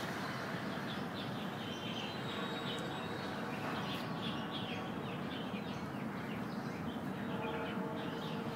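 Small birds chirping in quick, repeated calls over a steady background noise.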